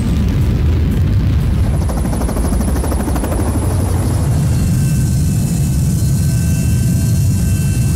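Aircraft engine noise: a loud, steady low rumble with a rapid beating in its first half, then several steady high whining tones join from about halfway through.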